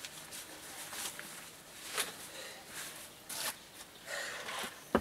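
Rain clothing and gear being handled: short rasping strokes of synthetic fabric and a zip, a few separate strokes in the second half, and a sharp click at the very end.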